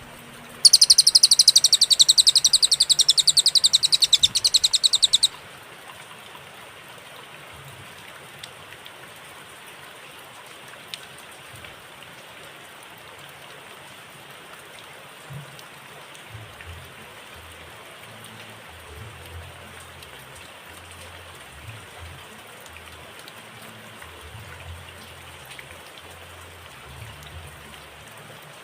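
Cililin songbird singing a fast, even trill of high repeated notes for about five seconds, then stopping. A steady soft hiss continues after it.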